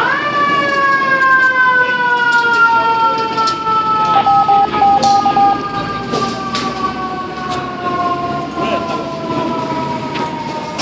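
A fire engine's mechanical siren winds up sharply, then winds down in one long, slowly falling wail for about ten seconds, and winds up again right at the end. A few short beeps come about four seconds in.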